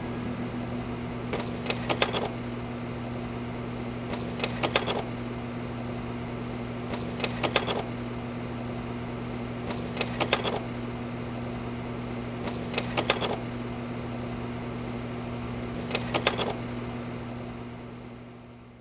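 A small machine humming steadily, with a short cluster of rapid clicks about every two and a half to three seconds. It fades out near the end.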